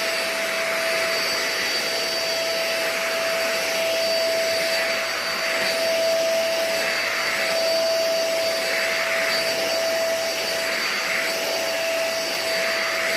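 Deerma DX700 2-in-1 handheld vacuum cleaner running steadily: a constant motor whine over a rushing air hiss, swelling slightly now and then.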